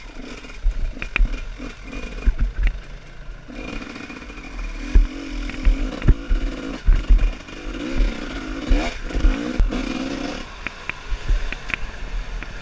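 Dirt bike engine running, its pitch rising and falling as it revs from about four to ten seconds in, with frequent knocks and clatter throughout.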